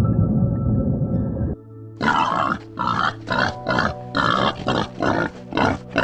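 An animal giving a run of short, rough grunting calls, about two a second, starting about two seconds in, over steady background music. Before that, a deep rumbling sound with held tones cuts off suddenly.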